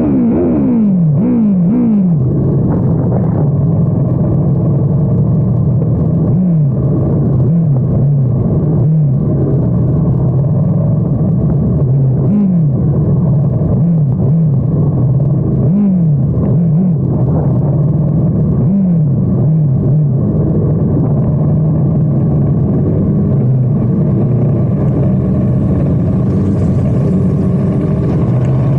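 Sport motorcycle engine running steadily at low revs, with short throttle blips whose pitch quickly falls back, several in the first two seconds and more scattered through.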